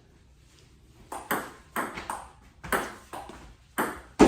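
Table tennis rally: the ball clicking sharply off the paddles and the table, about two or three hits a second, starting about a second in.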